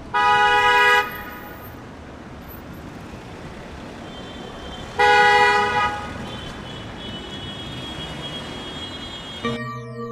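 Vehicle horn honking twice, each blast a steady note just under a second long, about five seconds apart, over a steady background rumble.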